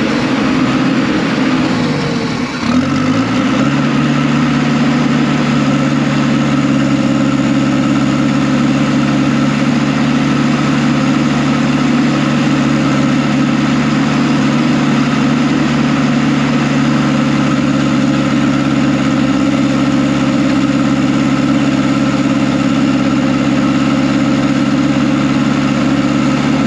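Diesel engine of heavy earthmoving equipment working steadily. Its pitch drops briefly about two to three seconds in, then comes back up and holds steady.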